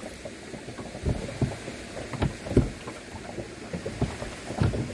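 Canoe being paddled: irregular low knocks and splashes of the paddle and water against the hull, with some wind on the microphone.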